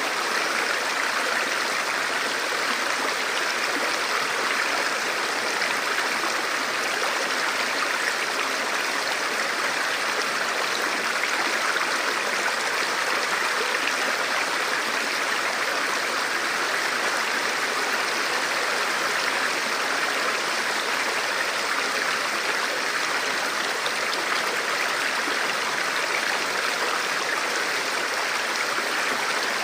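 Forest river or stream flowing steadily over rocks, a continuous even rush of water.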